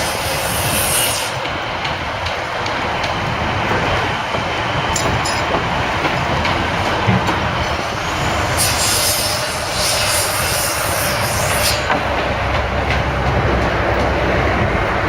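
Steady rumble of heavy vehicle traffic, with a high hiss at the start and again for about three seconds in the second half.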